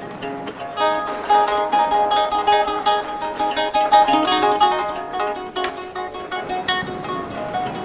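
Music played on a plucked string instrument: a quick run of short picked notes from about a second in.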